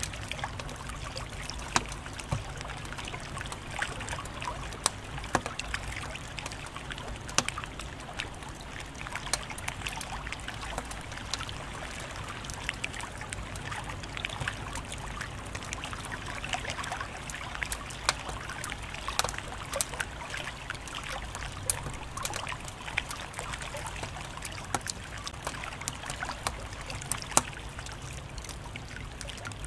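Wood fire crackling steadily, with many small irregular pops and a few louder snaps over a soft, constant hiss.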